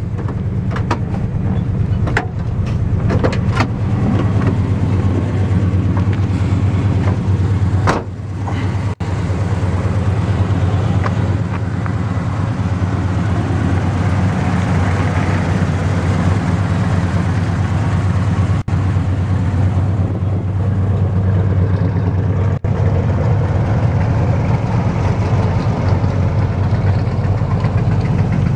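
1971 Chevelle SS's 454 big-block V8 idling steadily, heard from outside the car. A few sharp clicks sound in the first few seconds and a single knock about eight seconds in.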